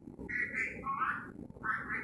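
Pet parrot talking in two short raspy, nasal bursts, a garbled attempt at the phrase "like and subscribe" it is being taught.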